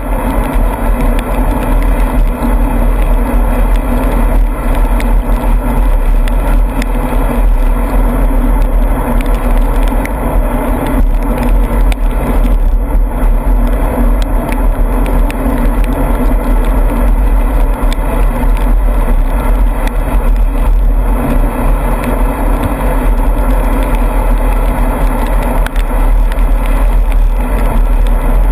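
Motor vehicle running steadily at road speed, with heavy wind rumble on the microphone.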